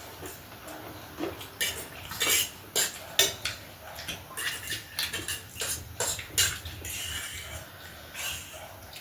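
Cutlery clinking and scraping against a dish while eating, an irregular run of sharp clicks and short scrapes.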